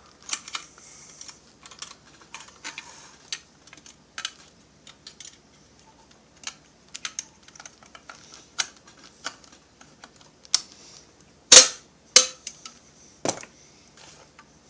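Small metal clicks and taps of parts and a hand tool being worked on a chainsaw's chain brake assembly, with three louder sharp snaps about two-thirds of the way in.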